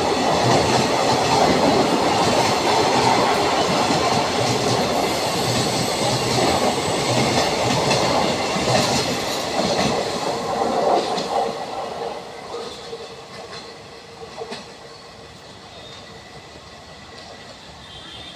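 Indian Railways passenger coaches rumbling past, their wheels clattering over the rail joints in a steady clickety-clack. The sound fades about twelve seconds in as the last coach draws away, leaving a faint distant rumble.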